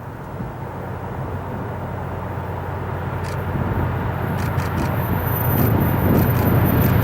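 Engine idling with a steady low rumble, fading in and growing louder, with a few light clicks in the second half.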